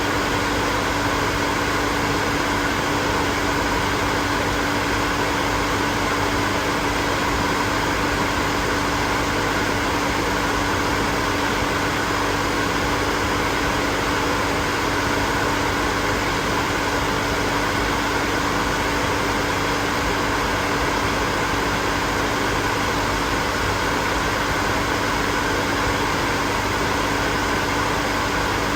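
Hair dryer running continuously: a steady rush of blown air with a constant motor hum underneath, unchanging throughout.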